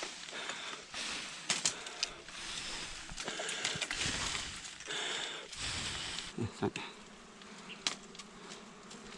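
Wild honey bees buzzing around an opened hive, a continuous hum with scattered sharp clicks and rustles.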